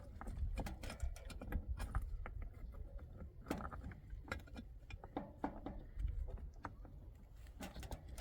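Irregular light clicks and knocks of objects being handled, over a steady low rumble.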